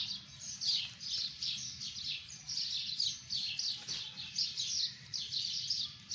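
Small birds chirping continuously, short high chirps about three a second. There is a single brief click about four seconds in.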